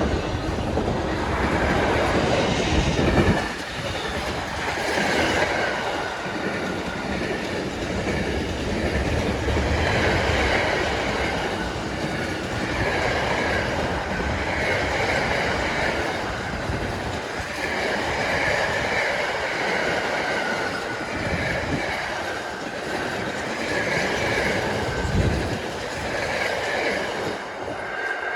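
A train running past, a steady rumble and clatter of wheels on the rails for the whole stretch, with a higher ringing sound coming and going every second or two.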